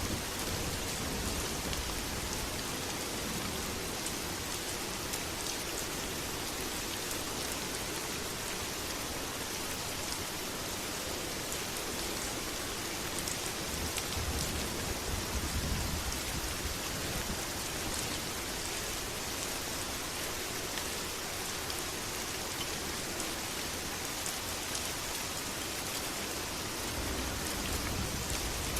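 Steady heavy rain falling on surfaces, with scattered distinct drop ticks and a low rumble that swells up a few times.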